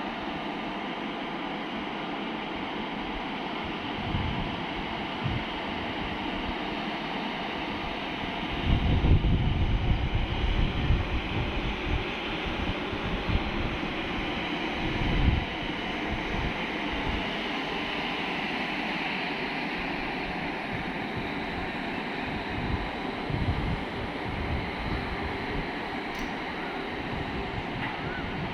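Steady running noise of a train in motion, with wind buffeting the microphone in uneven gusts, heaviest between about 8 and 16 seconds in.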